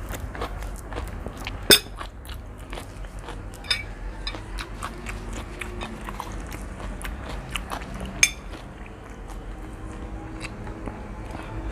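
A person chewing and eating spicy seafood instant noodles close to the microphone: a run of small wet clicks and smacks, with two sharper, louder clicks about two seconds in and about eight seconds in.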